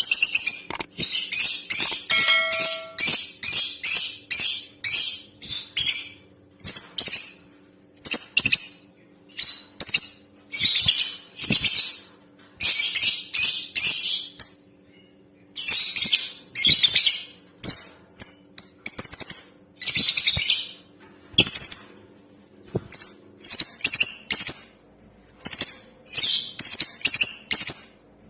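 Female lovebird calling in a long series of high-pitched chattering bursts, some drawn out and some made of rapid short notes, with brief pauses between them.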